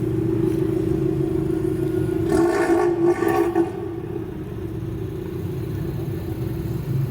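Modified car's exhaust running with a steady drone, louder for about a second from two and a half seconds in.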